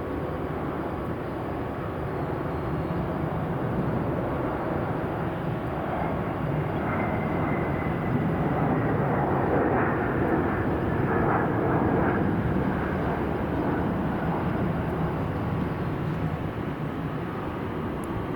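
Jet airliner's engines passing, a broad rush that builds to its loudest near the middle and then fades, with a faint high whine falling slightly in pitch.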